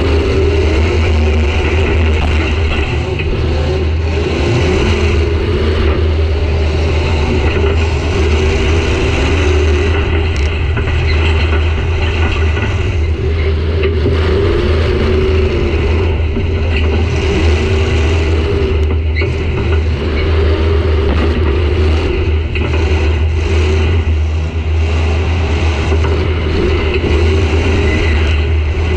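Demolition derby car's engine running loud, heard from inside the gutted cab, its pitch rising and falling as the driver works the throttle. A few sharp metallic knocks come through now and then.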